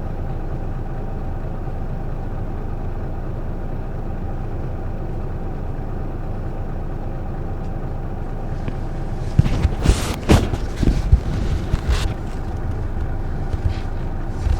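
Isuzu Erga PJ-LV234L1 city bus heard from inside the cabin while under way, its diesel engine running with a steady hum. From about nine seconds in, a run of loud, irregular thumps and rattles cuts through it.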